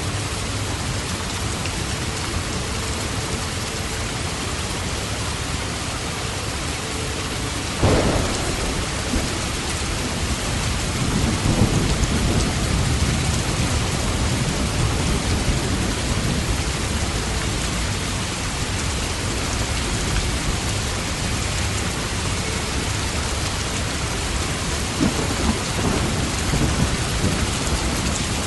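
Steady heavy rain with thunder: a sharp thunderclap about eight seconds in, rolling on low for several seconds, and another lower rumble near the end.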